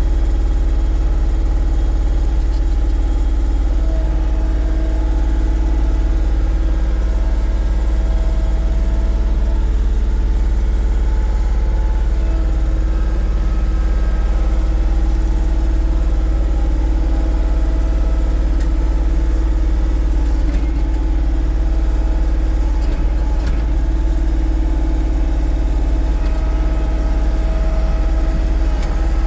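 Kioti CK3520SEH compact tractor's diesel engine running steadily at a constant speed.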